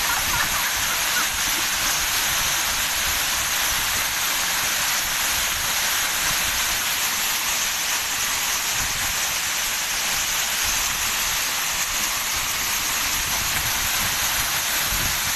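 Waterfall rushing: a loud, steady wash of falling water that does not let up.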